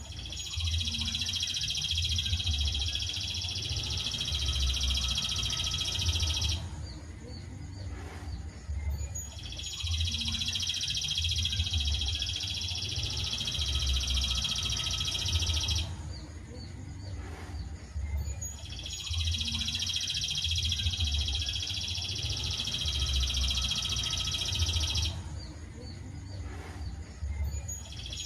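A songbird's high, dense trill sung in long unbroken phrases of about six to seven seconds, each stopping abruptly, with pauses of about two to three seconds between them, as on a birdsong tutoring ('masteran') recording. A low irregular pulsing runs underneath.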